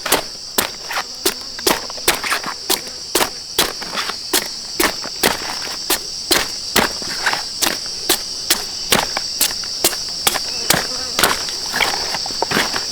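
Steady chopping strikes, about two or three a second, of a hand tool cutting into soil and roots to dig out a giant bamboo shoot, over a constant high-pitched drone of insects.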